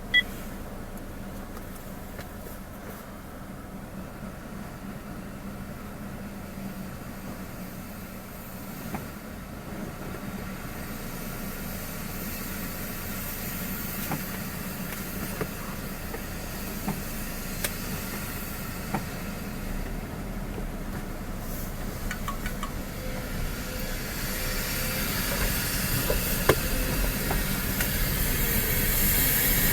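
Vehicle noise: a steady engine hum under a rushing hiss that grows gradually louder through the second half. One sharp click comes right at the start, and a few faint knocks are scattered through it.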